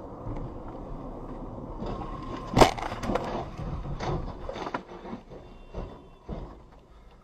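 Vehicle collision: one loud bang about two and a half seconds in, followed by scattered knocks and clatter over steady road noise.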